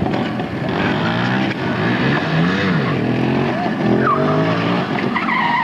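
Soviet motorcycle engines being revved hard, pitch sweeping up and falling back again and again, with more than one engine audible.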